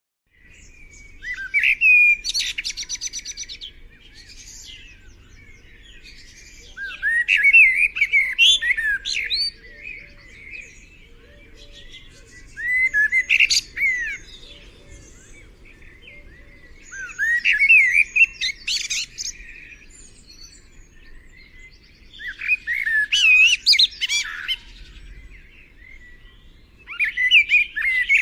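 A songbird singing: loud, complex warbled phrases with fast trills, repeated about every five seconds.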